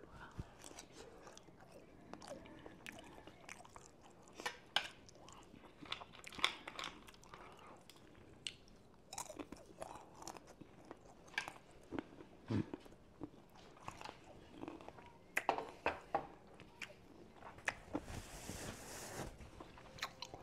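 Close-miked chewing and biting of breakfast food, with irregular wet mouth clicks and a few crunches. A short hiss comes near the end.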